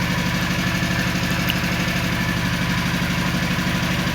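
Engine idling steadily with an even, rapid low pulse.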